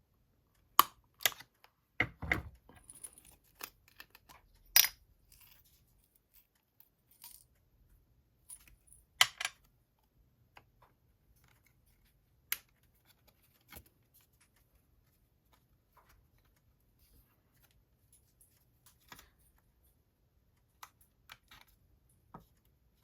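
Hands working paper ephemera and a small metal brad at a craft table: scattered sharp clicks and taps at irregular intervals, with faint paper rustling between. The clicks come thickest in the first few seconds, then more sparsely.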